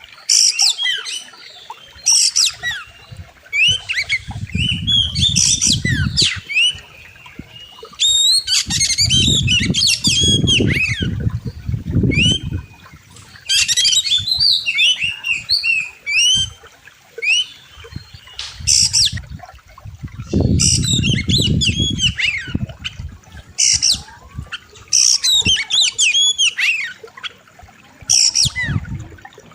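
Oriental magpie-robin (kacer) singing loud, sharp phrases of fast whistles and chattering notes in repeated bursts with short gaps. A low rushing sound comes and goes beneath the song three times.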